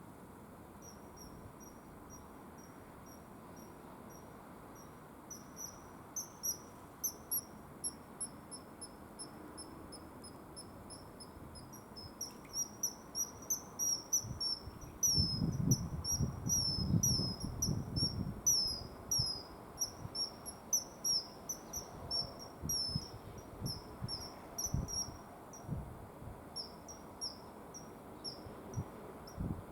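Common kingfisher calling: a rapid series of short, high, slightly falling chirps, several a second, growing denser and louder about halfway through. Low rumbles come in under the calls in the middle and near the end.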